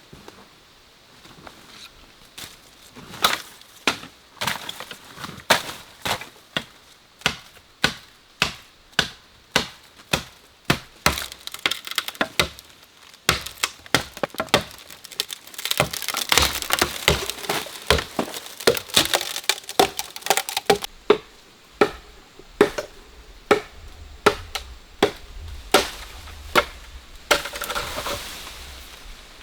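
A blade chopping into wood, strokes landing about once a second, with a stretch of splintering and crackling wood in the middle.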